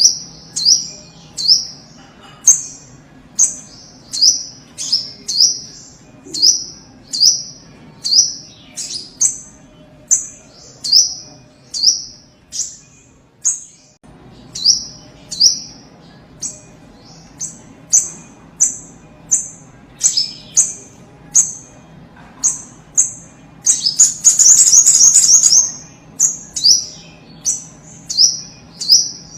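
Spiderhunter (sogok ontong) calling energetically: a long series of sharp, high chips, about one or two a second, with a louder fast chattering burst about twenty-four seconds in.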